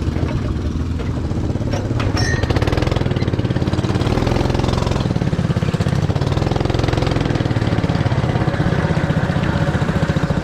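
Small go-kart engine running with a rapid pulsing beat, its pitch rising and falling with the throttle.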